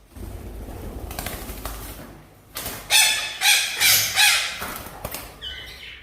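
Red-breasted parakeet giving about four loud, harsh squawks in quick succession about halfway in, then a few softer calls near the end. The squawks come after a few seconds of rustling noise.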